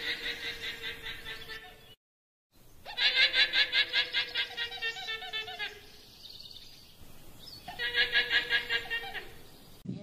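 A comic animal-like sound effect dubbed in place of speech: three bursts of rapid high-pitched pulsing, about eight pulses a second, over a faint steady tone. It cuts to dead silence for half a second about two seconds in.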